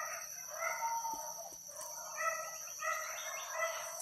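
Roosters crowing, a few long drawn-out calls that overlap near the end.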